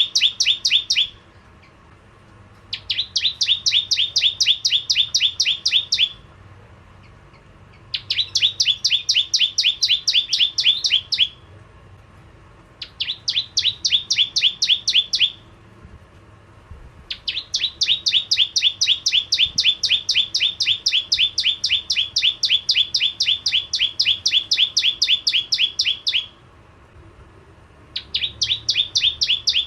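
Prenjak jawa (bar-winged prinia) singing: loud bouts of a fast run of sharp, repeated notes, about five a second, each bout lasting a few seconds with short pauses between them.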